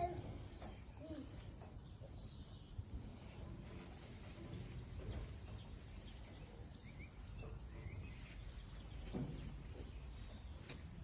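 Faint, scattered short chirps and calls, a few rising or falling in pitch, over a low steady background noise.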